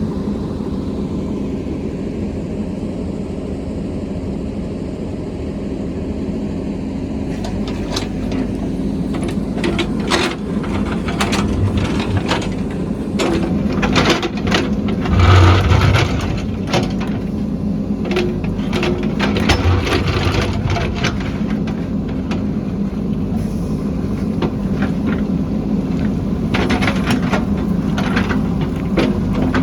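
A heavy construction machine's diesel engine running steadily under load. From about seven seconds in, many sharp knocks and cracks sound over it as material is broken and crushed.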